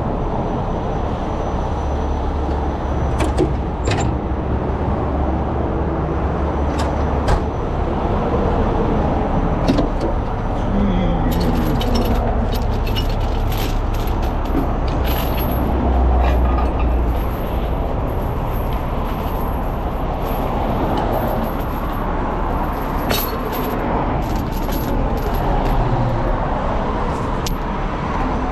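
A truck engine running steadily, with scattered sharp metallic clicks and clanks throughout.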